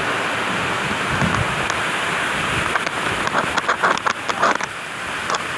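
Waterfall water rushing and splashing, a steady loud noise; in the second half short sharp clicks or splashes come in over it.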